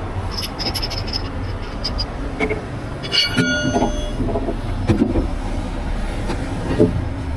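Steady low engine rumble with scattered metallic clanks and rattles, and a brief high ringing metal screech about three seconds in.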